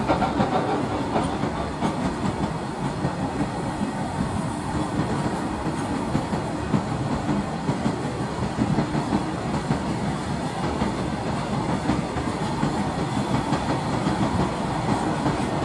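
A fast freight train's open-top wagons rolling past at speed: a steady rumble with the clickety-clack of steel wheels over the rail joints.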